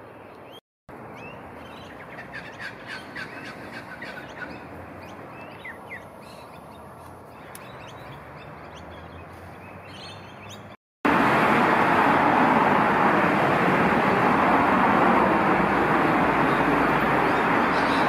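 Birds calling in short, quick, downward-sliding chirps, clustered a few seconds in. After a cut, a loud, steady rushing noise takes over, with faint high chirps above it.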